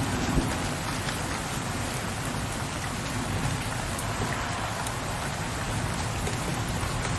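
Steady rain falling, an even hiss of drops. The tail of a low thunder rumble dies away in the first moment.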